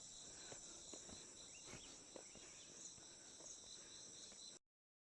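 Faint, steady high-pitched insect chorus, with a few soft knocks under it; it cuts off abruptly near the end.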